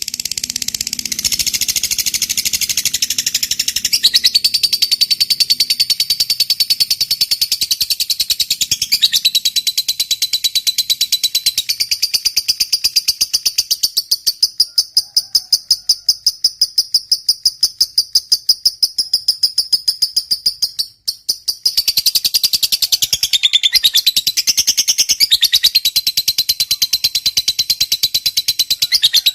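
Lovebird giving a long 'ngekek' chatter: a continuous, rapid, evenly pulsed high trill held for many seconds. It breaks off briefly about two-thirds of the way through, then resumes.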